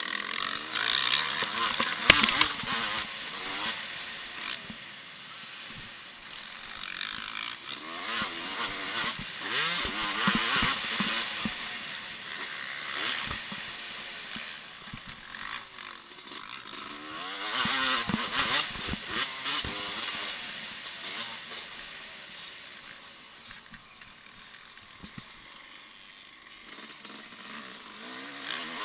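Motocross bikes revving hard as they pass, engine pitch rising and falling with the throttle, in three loud swells that fade between them. A sharp crack about two seconds in.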